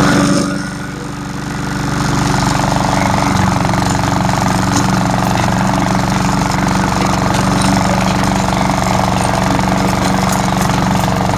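Cub Cadet lawn mower's 173cc PowerMore single-cylinder engine running at a steady speed just after starting. It drops in level briefly about half a second in, then settles.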